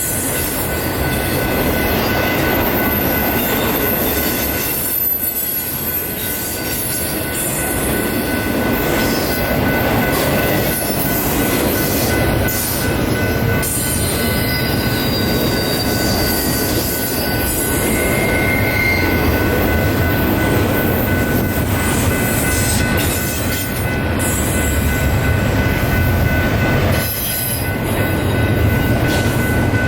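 A train rolling past, its steel wheels squealing on the rails in two steady high tones over the continuous rumble and rattle of the cars.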